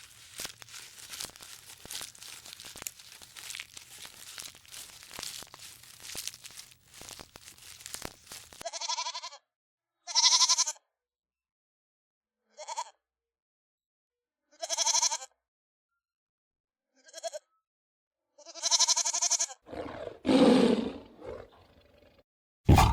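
Crackling and crunching for about eight seconds, then an animal giving six short, high-pitched calls separated by silent gaps, followed by a longer, lower and rougher call near the end.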